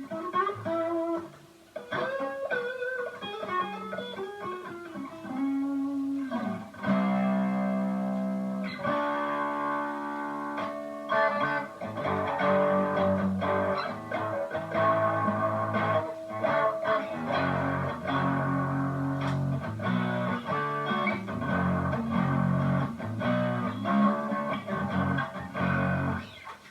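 Electric guitar played through a distortion pedal: single-note lead lines with string bends, then chords and riffs from about seven seconds in.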